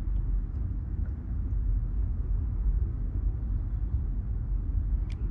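Wind buffeting an outdoor microphone at sea, a steady low rumble, with a single faint click near the end.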